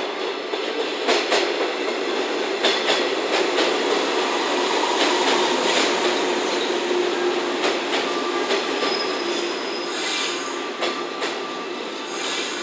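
JNR 115 series electric train running slowly past, its wheels clicking over rail joints and points and squealing, over a steady hum. Two short bursts of hiss come about ten seconds in and just before the end.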